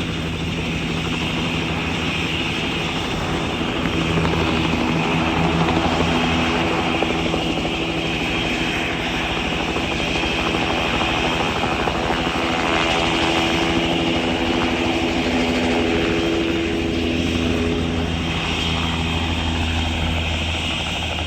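Helicopter running steadily, its rotor and engine giving a continuous hum with a fast even beat, swelling a little a few seconds in.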